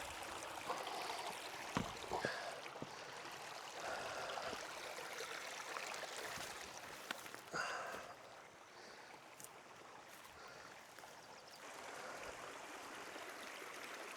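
Steady rush of a fast-flowing upland river over rocks, with a few short knocks in it.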